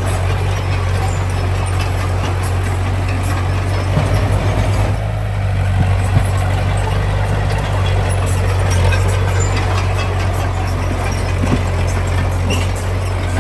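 Heavy diesel engine of construction machinery running steadily with a deep low hum, its note wavering briefly about four to five seconds in.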